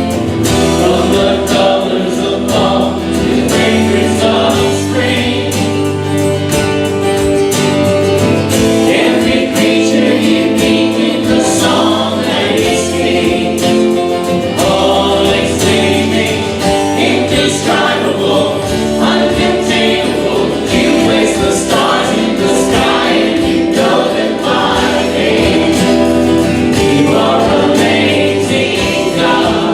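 A church congregation singing a worship song together with instrumental accompaniment, as a choir of voices holding long sustained notes.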